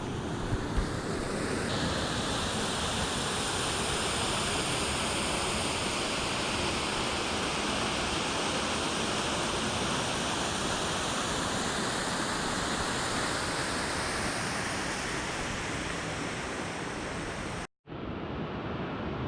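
Waterfall rushing, a steady even roar of falling water, broken off for an instant near the end.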